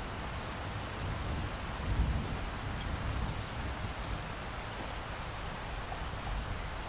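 Steady rain falling, with a low rumble underneath that swells briefly about two seconds in.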